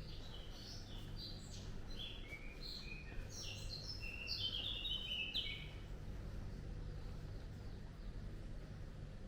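A songbird sings a fast run of short, varied chirping notes for about six seconds, then stops. A steady low background hum runs under it.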